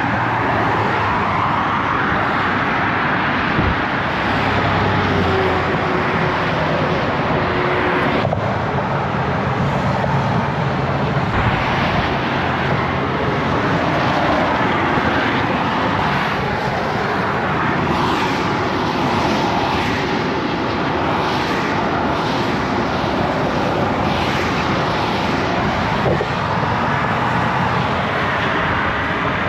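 Volkswagen GTI's 1.8-litre turbocharged four-cylinder engine running steadily, a dense, even noise with no clear change.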